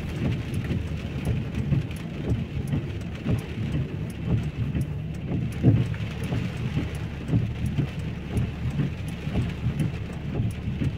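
Heavy rain falling and splashing, a steady rushing with a dense, uneven low rumble of drops hitting close by.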